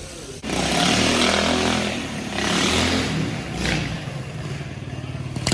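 Motorcycle engine revving hard in repeated bursts, starting suddenly about half a second in, with three swells in all.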